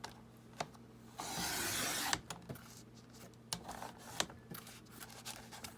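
A cutter drawn through the thin cardboard of a tissue box in one scratchy stroke of about a second, ending in a sharp click, followed by a few light clicks and taps of the cardboard being handled.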